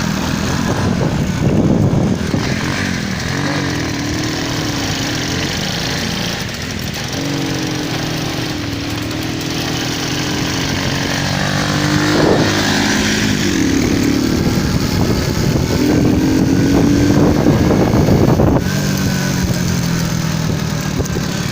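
Motorcycle engine running under way, its pitch climbing and dropping several times as the rider works the throttle.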